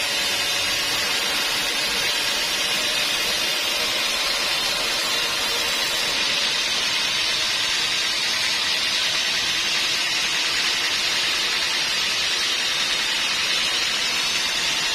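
Sawmill machinery running, a loud steady noise without breaks or changes.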